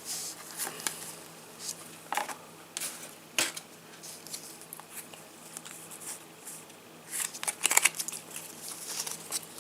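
Trading cards being handled and flicked through one by one, with irregular soft snaps and rustles of card against card. There is a busier flurry of flicks about three-quarters of the way through.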